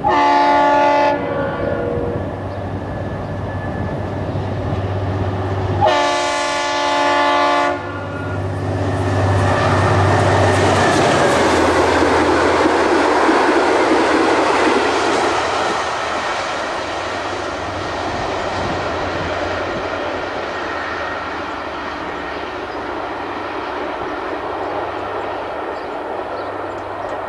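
Diesel locomotive hauling passenger carriages sounds its horn twice, a short blast and then a longer one about six seconds later. It then passes close by, its engine running and its wheels rumbling and clacking over the rails, and the sound eases off slowly as the carriages go by.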